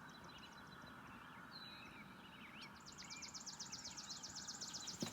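Wild birds chirping with short calls, and from about halfway in a rapid high trill of evenly repeated notes, about a dozen a second, over a faint steady outdoor rush.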